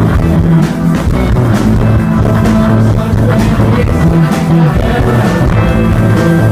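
Indie rock band playing live: electric guitars and bass over a steady drum beat, loud and dense.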